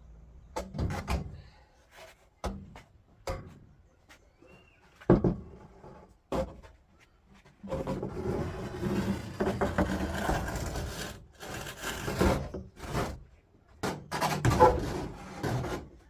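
Irregular knocks and scraping of hands-on work with materials, with a long stretch of continuous rubbing or scraping about eight to eleven seconds in.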